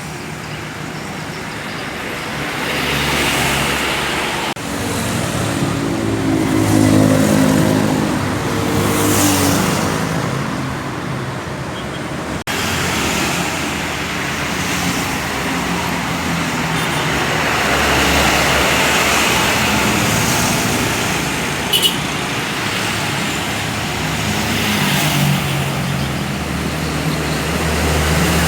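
Road traffic: cars and motorcycles passing one after another, engines swelling and fading as each vehicle goes by over a continuous rumble of tyres and engines.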